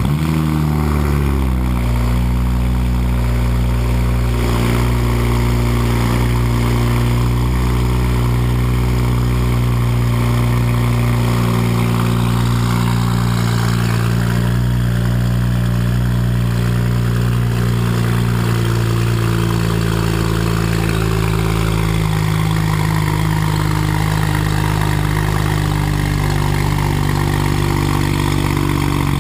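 BMW 135i's turbocharged inline-six on a cold start, running at a raised cold idle through a prototype HPF exhaust with catless downpipes. The revs drop from the start-up flare in the first second or two, then hold at a steady fast idle.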